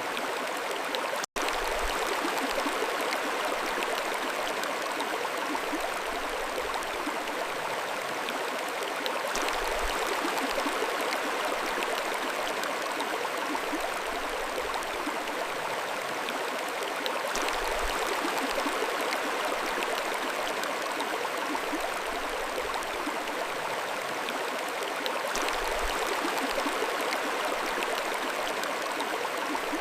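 Mountain stream flowing: a steady wash of running water that swells slightly about every eight seconds, with a split-second dropout about a second in.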